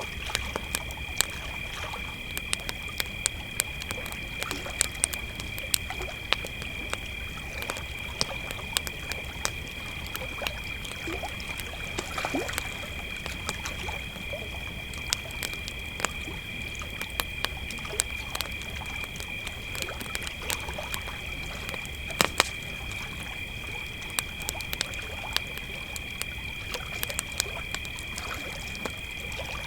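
Crickets trilling in a steady, unbroken high drone, with a wood campfire crackling throughout in sharp, irregular snaps and pops.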